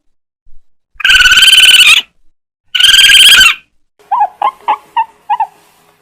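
Bird calling: two loud, harsh calls about a second long each, then from about four seconds in a run of short, quieter notes at about three a second.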